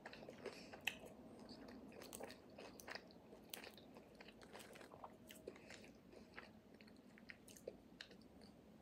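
Faint chewing of an empanada close to the microphone: scattered small crunches and wet mouth clicks, with no steady rhythm.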